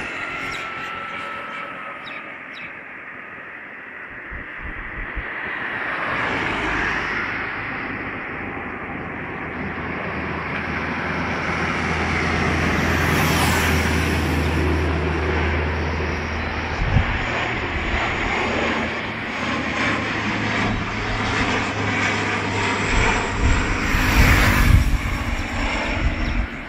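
Airliner's engines during a landing: a rushing roar that swells to a peak about halfway through and stays loud, with a low steady hum under it and a few low thumps toward the end.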